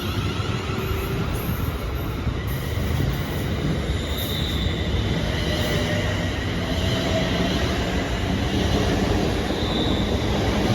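Scottish Class 380 electric multiple unit running past along the platform: a steady rumble of wheels on rails, with faint high squealing tones from the wheels now and then.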